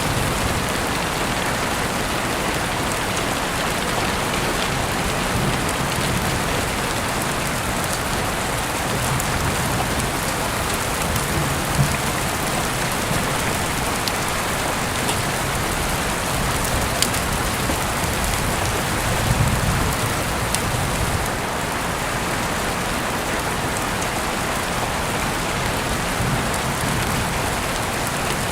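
Heavy rain falling steadily, an even hiss with occasional sharp drip ticks, heard through an open window.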